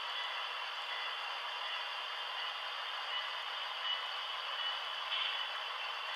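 HO scale model diesel locomotives running on the layout: a steady mechanical rumble-hiss with faint steady tones, thin and without bass, as from small model speakers and running gear.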